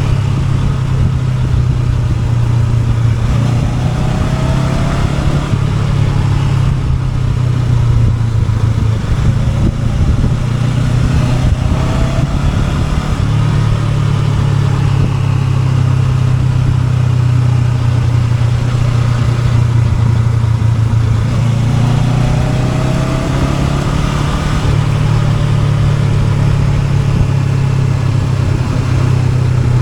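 Honda NX500's parallel-twin engine running under way, its note rising and falling a few times as the throttle changes.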